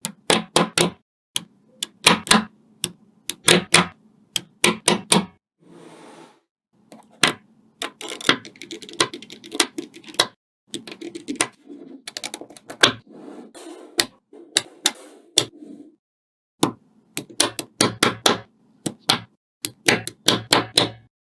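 Small coloured magnetic balls clicking and snapping against each other as they are pulled apart and joined, in quick runs of sharp clicks with short pauses between.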